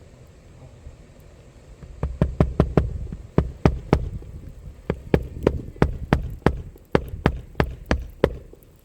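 Hammer driving roofing nails through an asphalt shingle: a run of sharp blows, about three a second in short groups, starting about two seconds in.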